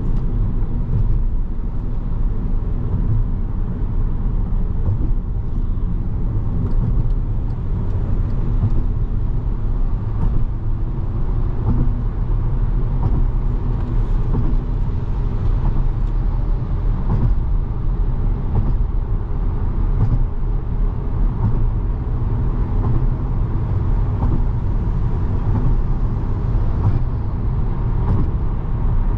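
Steady low drone and road rumble of a 2017 Volkswagen Jetta SE with a five-speed manual gearbox being driven, heard from inside the cabin.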